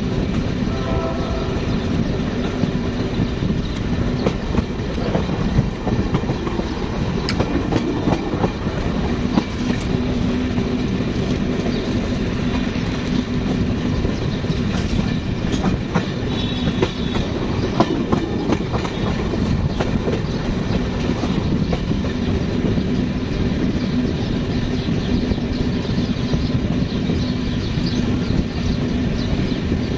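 Passenger train of Russian-built coaches running past, wheels clattering in a dense stream of clicks over a continuous rumble with a steady low hum.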